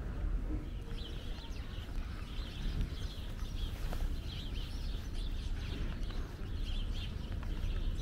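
Birds chirping and calling again and again in short high clusters, over a steady low background rumble.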